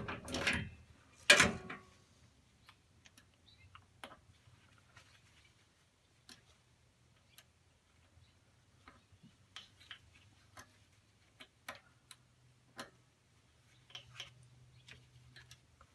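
Sparse, irregular light metal clicks and taps from tools and tiller parts being handled during belt-drive work, over a faint low hum, after a louder knock in the first second and a half.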